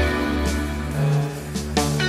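A band playing a song: guitars over a steady bass line, with drum hits.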